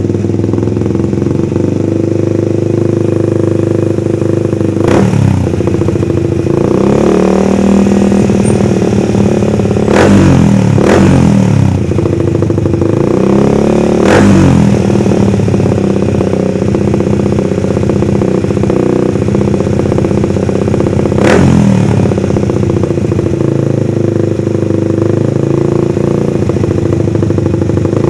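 Motorcycle engine idling steadily through its exhaust, blipped sharply about five times in quick throttle snaps, each rev rising and falling back to idle. This is an exhaust sound test.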